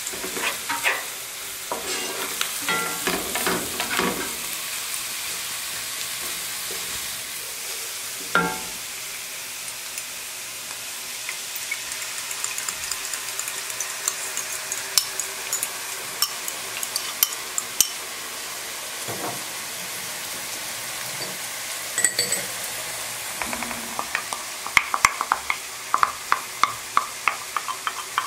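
Chopped onions and flour sizzling in oil in a pot while a wooden spoon stirs and scrapes through them, with scattered crackles. Near the end a quick run of spoon knocks and scrapes as tomato paste is scraped in from a glass bowl.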